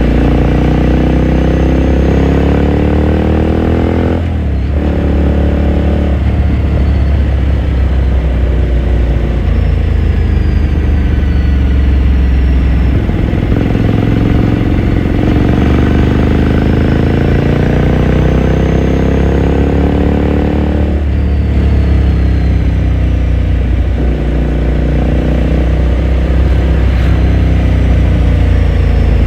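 2018 Ducati Scrambler Sixty2's air-cooled 803 cc L-twin on its exhaust, pulling up through the revs under acceleration. The pitch rises steadily, drops suddenly with an upshift about four seconds in and again about 21 seconds in, then climbs again.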